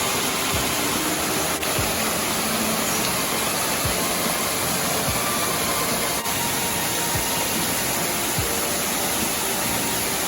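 Steady, loud rush of falling water from a mountain waterfall or stream.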